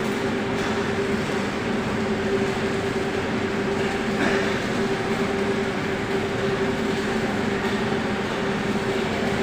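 A machine running steadily, a constant hum over an even hiss, with no change in pace or pitch.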